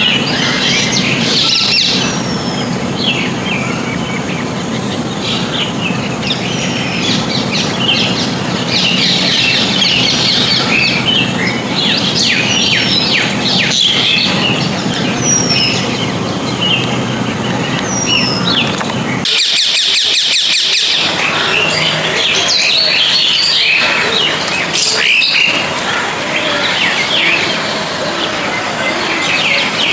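Birds chirping and calling, with many short rising and falling chirps, over a steady low hum. About nineteen seconds in, the background changes abruptly and a fast, even trill is heard.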